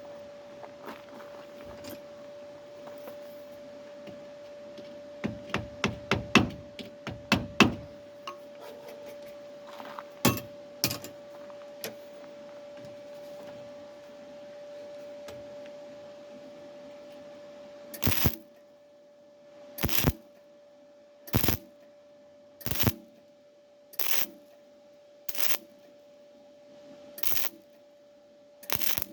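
MIG welder stitch-welding a thin steel body panel in short bursts, about one every second and a half in the second half, each with a crackle. Earlier come a quick run of sharp clicks, and a steady hum lies under everything.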